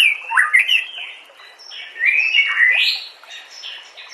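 White-rumped shama singing a rich, varied song of rapid whistled phrases with quick rising and falling sweeps, pausing about a second in before starting a new run of phrases at around two seconds.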